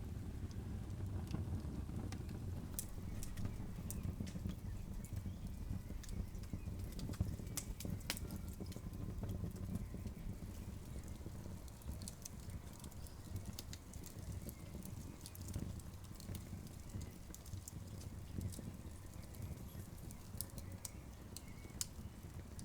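Wood campfire burning, with a low steady rumble and irregular sharp crackles and pops.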